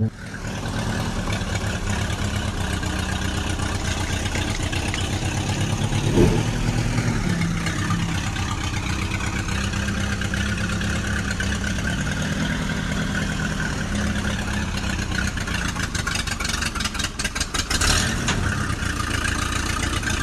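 Tractor engine sound running steadily with a fast, even low pulse, rising briefly in pitch about six seconds in, with a stretch of crackling clicks near the end.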